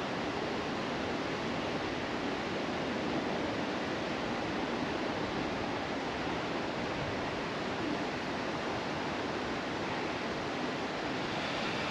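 A steady, unbroken rushing hiss of outdoor background noise.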